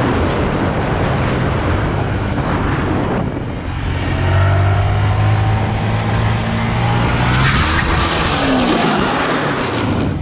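Motorcycle engine running under way with heavy wind and road noise. The engine note climbs, then about seven seconds in a louder rushing noise sets in and the pitch falls away.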